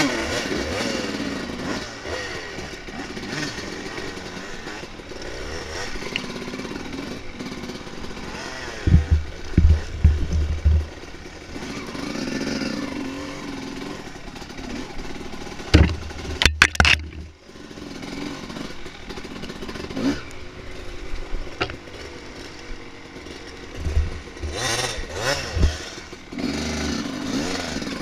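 Dirt bike engine running under way, its pitch rising and falling as the throttle is opened and closed. A few loud knocks and deep thuds break in, about a third of the way through, past the middle and near the end.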